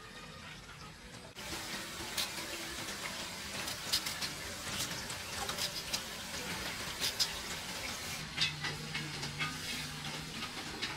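Food frying in a pan: a steady sizzle with sharp crackles and pops, starting suddenly about a second and a half in.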